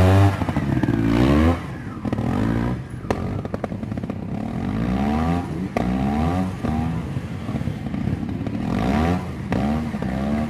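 Trial motorcycle engine revving in repeated short blips, its pitch sweeping up and down, loudest at the start. A few sharp clicks and clatters come in between.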